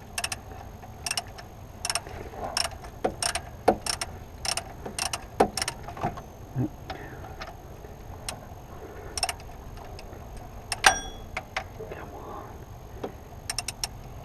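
Hand tools clicking and knocking on metal in the engine bay while the alternator bolts are worked loose: irregular sharp clicks, often in pairs, with one louder knock near the end.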